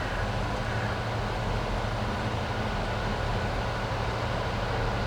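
Train running steadily, a low, even hum with a rushing noise over it.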